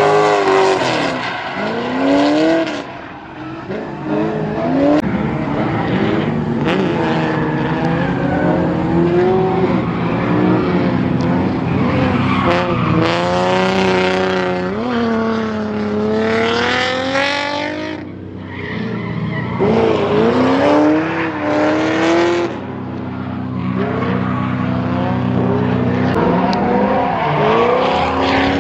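Drift car engines revving hard, the pitch climbing and dropping again and again, with tyres squealing as the cars slide.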